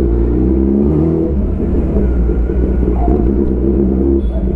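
Kawasaki ZX10R's inline-four engine through an Arrow full exhaust system, running at low revs and pulling smoothly under load, with a steady low rumble that shifts slightly in pitch.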